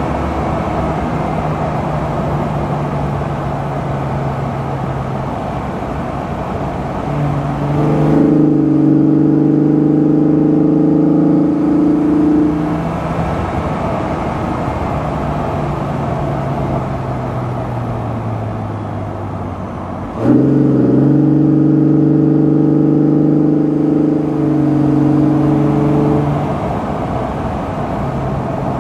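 Opel Omega's 3.2-litre V6 engine and Jetex rear exhaust box running while the car is driven at speed. About a third of the way in the drone gets louder as the throttle is opened, then eases off with a slowly falling pitch. Past the two-thirds mark it steps up suddenly again, holds, and settles back toward the end.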